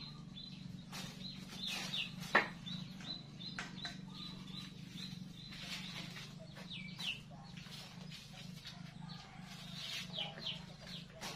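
Small birds chirping on and off throughout, short rising and falling notes, over a low steady hum. A single sharp knock about two and a half seconds in is the loudest sound, with a few fainter taps elsewhere.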